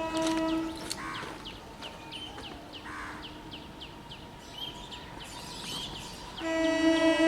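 A train horn sounds a steady chord. It breaks off just under a second in, carries on faintly in the middle, and comes back loud about six and a half seconds in. In the gap, short high chirps repeat about twice a second.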